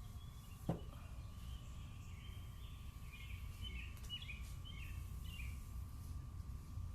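Faint bird chirps, a few short calls in a cluster in the middle, over a steady low background rumble, with a single knock just under a second in.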